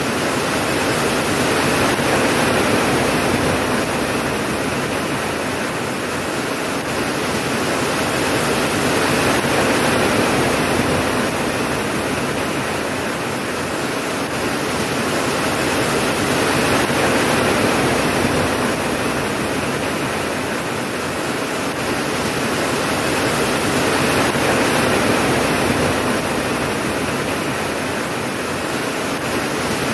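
Steady rain falling, an even hiss of water that swells and eases gently about every seven or eight seconds, with no thunder.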